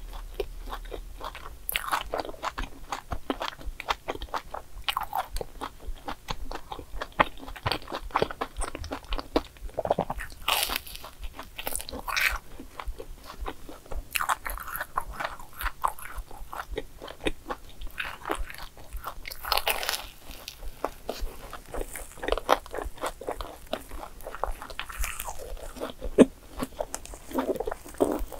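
Close-miked chewing and biting into a sugar-coated fried dough pastry: many short crunches and wet mouth clicks in an uneven stream.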